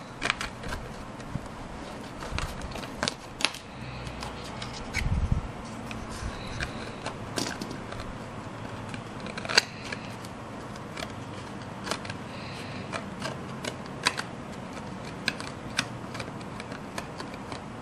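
Scattered small clicks, taps and soft knocks of craft materials being handled at a work surface, over a faint steady hiss.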